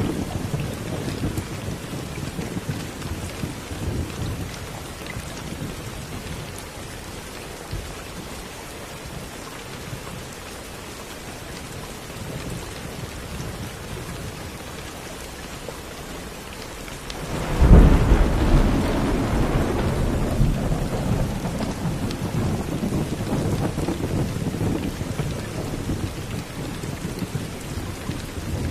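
Steady rain with thunder. A low rumble dies away over the first few seconds, then a loud thunderclap breaks about two-thirds of the way through and rumbles on for several seconds as it fades.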